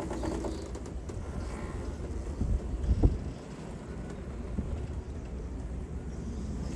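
Strong gusty wind blowing across the microphone, a steady low noise, with a brief thump about three seconds in.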